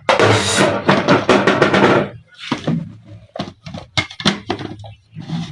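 A spoon stirring fast in a cooking pot, a rapid clatter for about two seconds, followed by a series of separate knocks against the pot.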